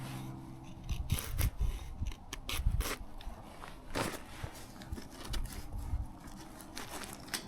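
Cedar wood being handled and worked by hand: irregular scrapes, cracks and knocks.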